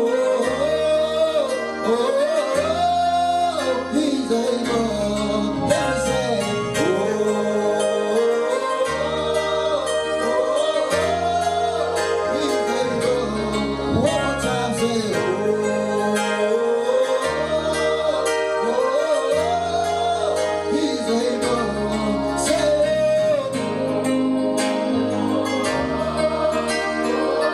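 A gospel song: a singer's voice gliding and holding notes over instrumental accompaniment, with a bass line that steps to a new note every second or two.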